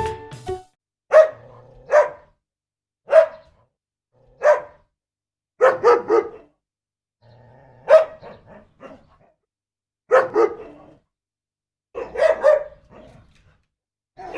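A dog barking repeatedly: single barks and short runs of two or three, spaced a second or two apart.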